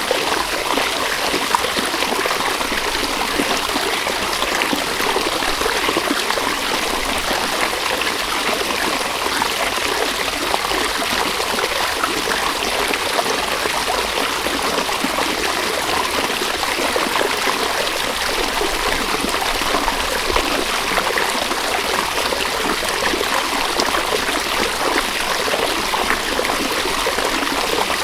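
River water running steadily over stones, a continuous babbling and trickling rush.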